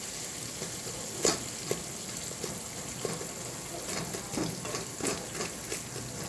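Onions and spices sizzling in oil and butter while a spoon stirs them in the pan, with a few sharp knocks of the spoon against the pan, the loudest about a second in.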